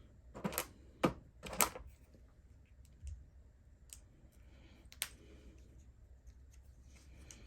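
Small hard clicks and taps from hand tools and parts of a radio-controlled car's axle being worked on, about half a dozen scattered sharp clicks with the loudest near the start.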